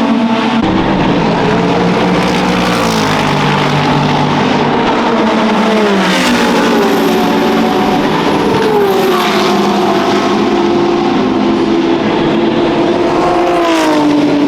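Race cars running on a circuit, more than one engine heard at once, their notes climbing and dropping repeatedly as they accelerate and shift or brake.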